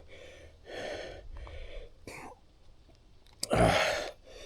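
A man breathing hard, puffing out a series of short breaths, with one louder, longer exhale or cough about three and a half seconds in. The breathing is that of someone out of breath from climbing uphill.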